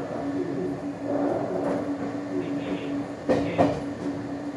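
Meitetsu 100 series electric train running slowly over points, heard from the cab: a steady low hum, with two sharp wheel clicks over the rail joints about three seconds in.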